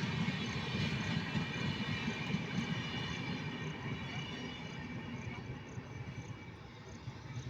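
Indian Railways train running on the track: a steady rumble with faint high-pitched ringing, slowly fading as it moves away.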